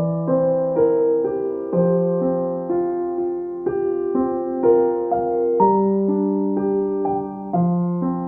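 Background music: soft, slow solo piano playing gentle melodic notes.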